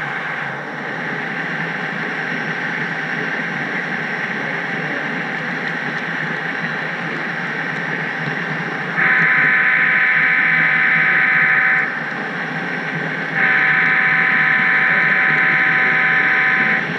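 HO-scale model train running steadily along the track, then the locomotive's horn sounding two long blasts of about three seconds each, the first about nine seconds in.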